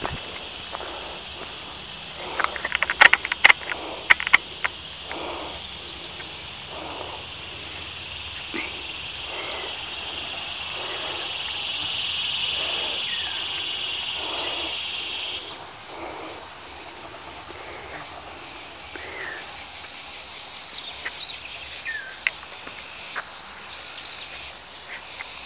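Footsteps walking on the forest floor, a little more than one step a second, with a cluster of sharp snaps a few seconds in. A high, steady buzz swells and then stops abruptly about halfway through, and a few short bird chirps follow.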